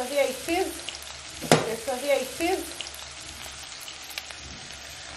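Beef and onions frying in an aluminium pot with a steady sizzle, stirred and scraped with a wooden spoon. The spoon knocks sharply once about a second and a half in, followed by brief squeaks of scraping.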